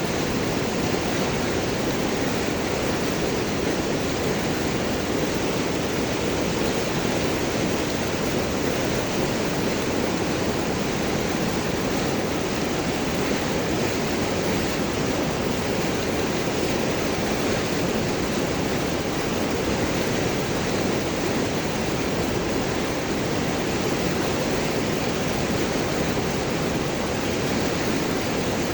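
River water rushing and gurgling over large rocks in a steady, unbroken wash of sound.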